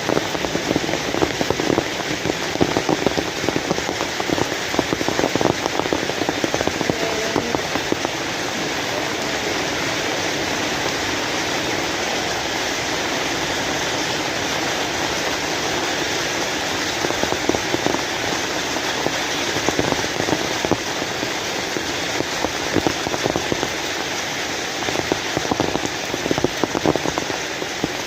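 Heavy rain falling steadily, a dense hiss of drops hitting the ground and surfaces. Sharper individual drop impacts stand out in the first several seconds and again near the end.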